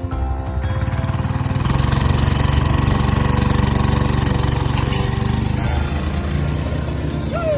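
A small engine running steadily with a fast low throb, over background music.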